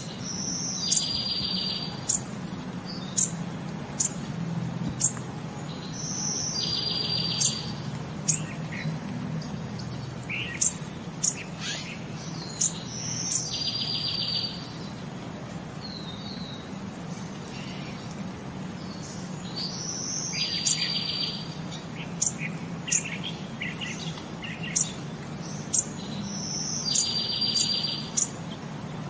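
Bird calls: a short high trill that repeats about every six and a half seconds, five times in all, with scattered sharp chirps in between over a steady low background noise. The identical repeats look like a looped nature ambience track rather than the sound of the scenes shown.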